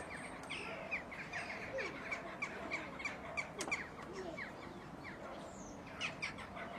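Birds calling: a rapid series of short, falling chirps, about three or four a second, that stops about four seconds in and resumes briefly near the end, with fainter lower calls underneath.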